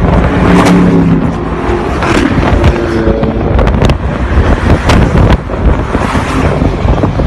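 Road traffic with wind buffeting the microphone, and two held, steady-pitched tones about a second long: one near the start and one about two seconds in.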